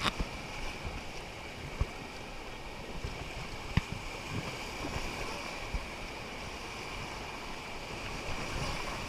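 River water rushing around a rafting boat, with wind on the microphone and a few sharp knocks, the loudest about four seconds in.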